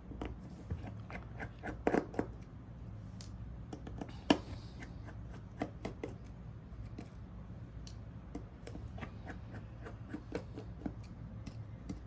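Small hand tools clicking, tapping and scraping against a smartphone's casing and parts during disassembly: irregular sharp ticks and light scratching, with a cluster of louder clicks about two seconds in and one sharp click a little after four seconds.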